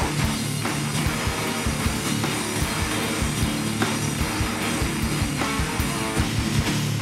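Hardcore band playing live at full volume: distorted electric guitars and bass over fast, dense drumming.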